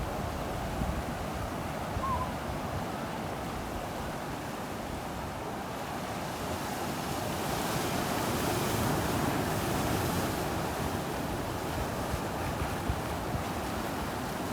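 Ocean surf rolling onto a beach, a steady wash with wind buffeting the microphone; a wave's wash swells louder about halfway through and then eases.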